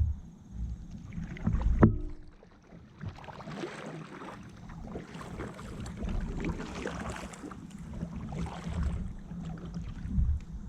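Kayak paddle strokes, the blade splashing through the water in repeated swells about every second, with a few low knocks against the hull, the loudest about two seconds in.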